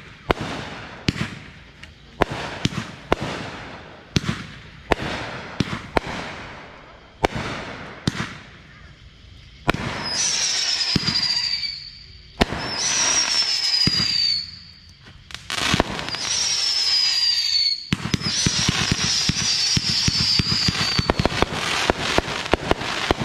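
Consumer fireworks going off: a run of sharp bangs and cracks, then four falling high whistles with hissing crackle, each lasting two to three seconds, ending in dense crackling.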